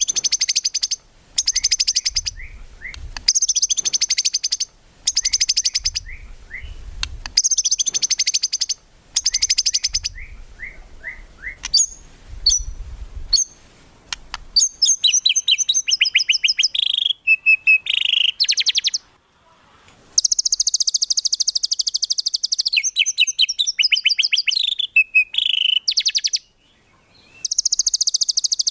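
White-rumped shama (murai batu) singing in high, rapid trilled phrases. Short bursts with brief gaps come first, then long unbroken runs of fast trills from about halfway.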